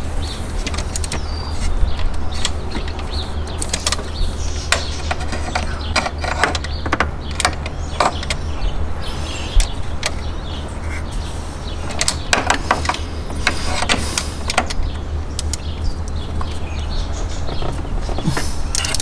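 Hand tools working a bolt out of a BMW engine's harmonic balancer: scattered metallic clicks and knocks at irregular intervals, over a steady low hum.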